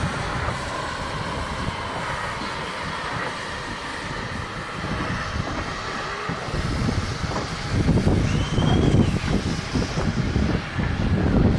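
A locomotive and train running on the line, growing louder from about eight seconds in.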